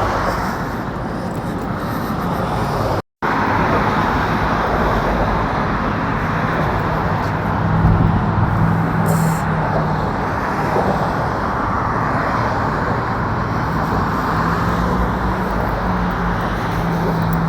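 Steady rush of road traffic, cars and heavier vehicles going past, with a low engine drone from about eight seconds in. The sound cuts out completely for a moment about three seconds in.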